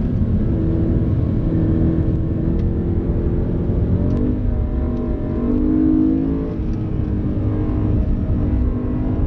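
BMW M3 E92's 4.0-litre V8 engine running hard under load, heard from inside the cabin over road and tyre noise. The engine note dips and climbs again about four seconds in and once more after about six seconds.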